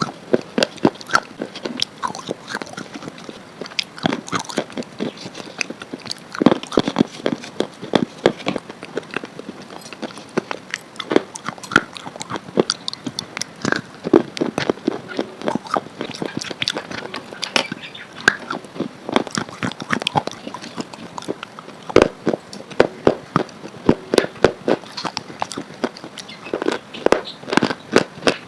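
Close-miked biting and chewing of something hard and brittle: an irregular run of sharp crunches, several a second.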